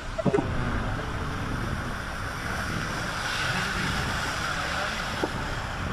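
Steady rushing of water with a low vehicle rumble underneath, as a vehicle moves along a rain-flooded road.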